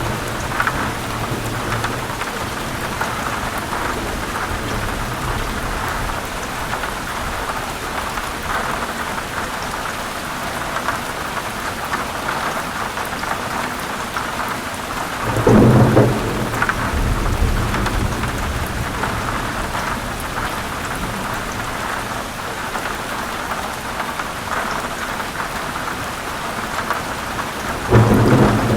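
Heavy rain falling steadily on forest leaves, with rolling thunder rumbling twice: once about halfway through and again near the end.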